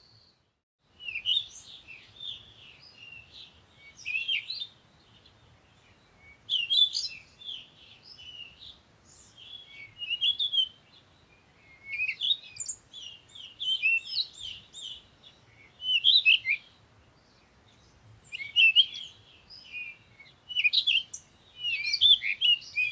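Birds chirping and twittering in repeated bursts of quick up-and-down notes, one burst every two seconds or so, starting about a second in.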